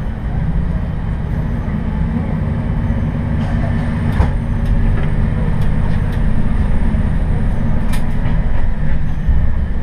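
Noto Railway diesel railcar running along the line, heard from inside the car: a steady low engine and running rumble. A few sharp clicks come through, about four and eight seconds in and again right at the end.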